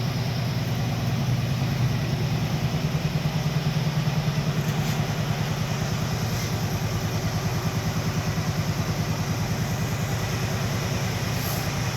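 Truck engine idling steadily with an even, fast pulse.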